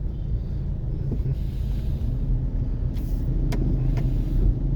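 Road traffic: a steady low rumble of vehicle engines, with three short sharp clicks or taps about three to four seconds in.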